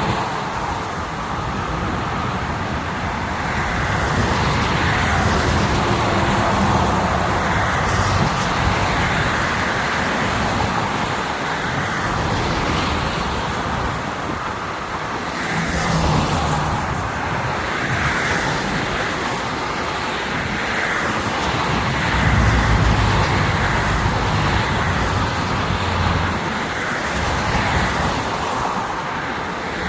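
Highway traffic noise: a steady wash of tyre and road noise with vehicle engines humming in and out as they pass.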